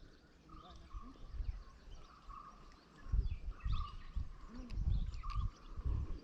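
Birds chirping in short, repeated calls. From about three seconds in, low rumbling thumps come in.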